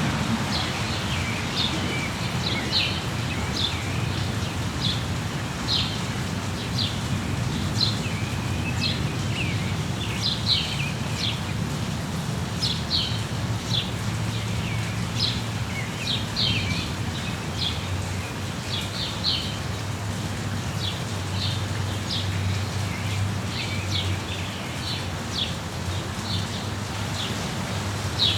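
Steady rain with a small bird chirping over it again and again: short, high chirps, one or two a second. A steady low rumble runs underneath.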